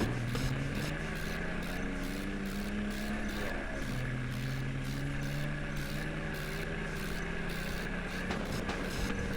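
New Holland tractor's diesel engine running steadily under load, hauling a loaded trolley, its pitch climbing a little near the start and again about four seconds in.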